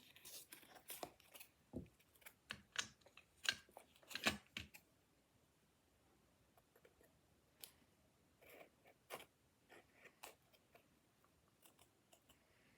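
Scissors cutting paper: a quick run of short snips in the first five seconds, then sparser, fainter snips.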